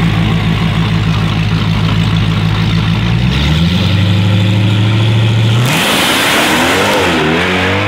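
Supercharged 6.2-litre Hemi V8 of a Dodge Challenger SRT Hellcat idling with a steady note, stepping up in pitch a little past three seconds as the car creeps forward. From about six seconds in a loud rushing hiss comes in while the engine revs up and down, as the rear drag radials spin on the wet pavement.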